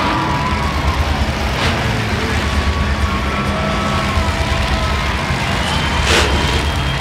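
Monster truck engines rumbling loudly at a low pitch, with thin high-pitched tones drifting over them. Two short bursts of noise come about a second and a half in and again near the end.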